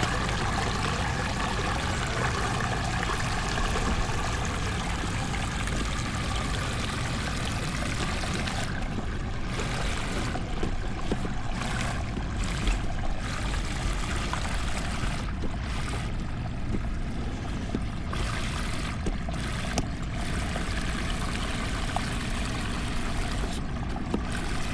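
Floodwater running steadily after heavy rain, a continuous rush of flowing water.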